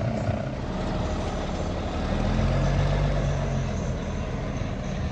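Camaro SS's built, cammed V8 engine running, its note swelling and easing back about two to three seconds in.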